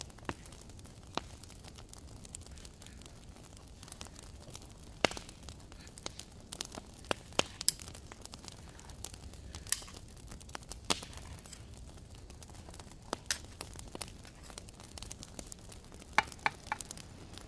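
Wood fire crackling: scattered sharp pops at irregular intervals over a low steady rumble.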